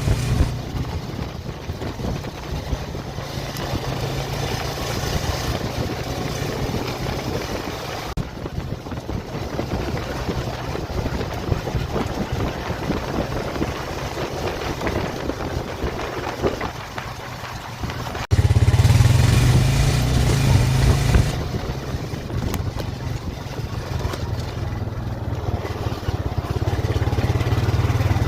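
A vehicle's engine running steadily under a constant hiss. About eighteen seconds in the sound abruptly gets louder, the engine noise much stronger.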